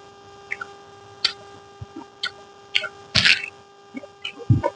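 A person eating close to the microphone: scattered short mouth clicks and smacks, with one louder, longer noisy chewing or slurping sound about three seconds in. A faint steady hum runs underneath.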